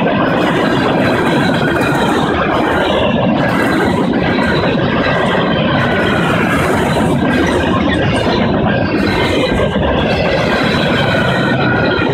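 Freight train cars (steel coil cars and tank cars) rolling past: a steady, loud rolling noise of steel wheels on the rails, with faint high ringing tones over it.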